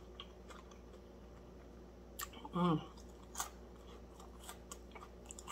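Faint chewing of crispy fried fish, with scattered short crunches and mouth clicks. A brief hummed "mm" comes about two and a half seconds in.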